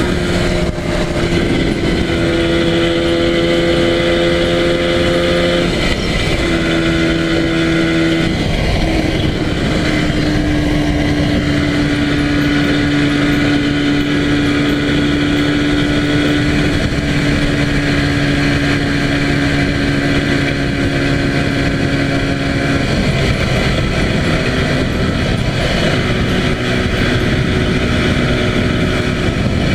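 Yamaha TZR250 (1KT) two-stroke parallel-twin engine running at steady cruising speed on the motorway, over a steady rush of noise. The engine note holds fairly even, easing slightly lower in pitch about 6 and 9 seconds in, and again later.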